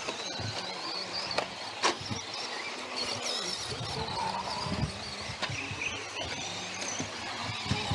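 Electric RC off-road buggies running: a high motor whine that rises and falls with the throttle, with a couple of sharp knocks about one and a half to two seconds in.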